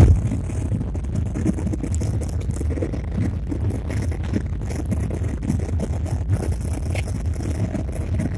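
Airliner during take-off: a steady low rumble from the engines and wheels, with light rattles on top.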